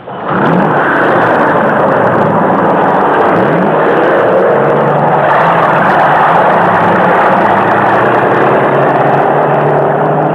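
A vehicle engine running loud and steady, starts suddenly, with its pitch rising twice in the first few seconds.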